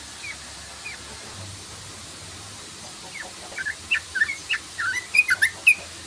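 Yellow-vented bulbul (trucukan) calling: a couple of single short notes, then from about three seconds in a rapid run of short, sharp chattering notes that grows louder toward the end.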